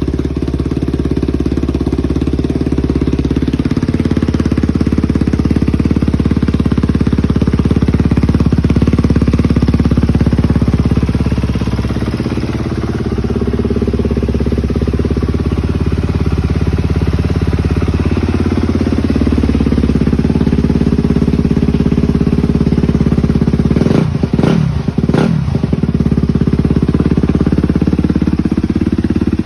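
Honda CRF250R's single-cylinder four-stroke engine running after a full rebuild, its pitch drifting up and down, with a couple of quick revs about 24 seconds in.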